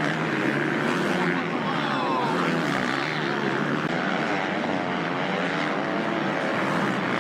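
Several racing motorcycle engines running hard on track, their pitch rising and falling with throttle and gear changes.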